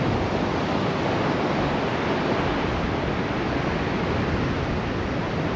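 Steady rush of sea surf on a sandy beach, with wind on the microphone, holding at an even level with no distinct breaks or impacts.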